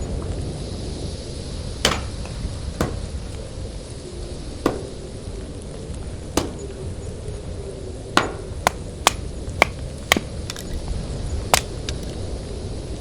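A series of about ten sharp knocks at uneven spacing, with a quicker run of five between about eight and ten seconds in, over a steady low rumble.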